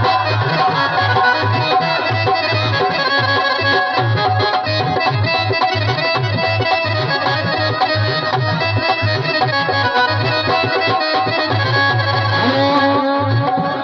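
Instrumental passage of Mewati folk music: a held, pitched melody over a steady, regular drum beat.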